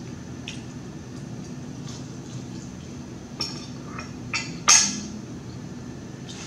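Close-miked chewing of barbecue rib tips: wet mouth smacks, a few sharp ones in the second half, the loudest about three-quarters of the way through, over a steady background hum.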